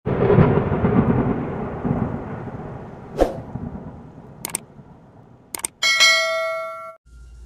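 A loud, thunder-like rumble that fades away over about three seconds, then a few sharp clicks, and a bright ringing chime about six seconds in that cuts off abruptly.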